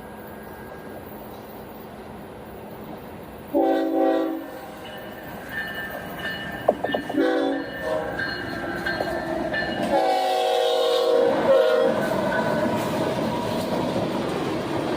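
Locomotive air horn sounding a chord in three blasts, the last the longest, as a train approaches. The train's rumble then builds as it passes.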